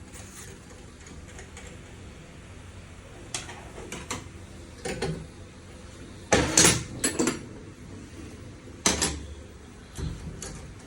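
Metal parts and tools being handled, making a series of separate clinks and clatters, the loudest cluster about six to seven seconds in.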